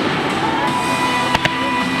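Firework shells bursting, two sharp bangs close together about a second and a half in, over music playing steadily.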